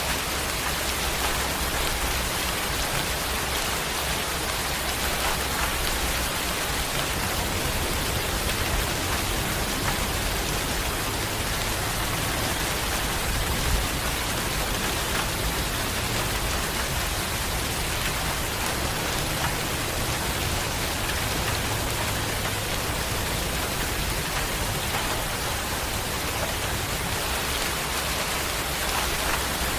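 Steady rain falling on a surface, a continuous even hiss with scattered individual drops.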